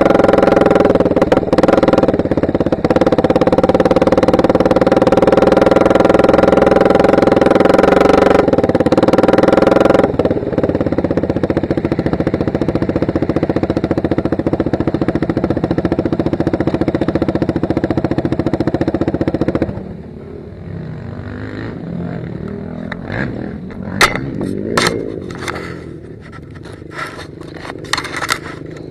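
Motocross bike engine running at a steady pitch, dropping in level about a third of the way in and falling away about two-thirds of the way through. Near the end come a series of sharp knocks and scrapes close to the microphone.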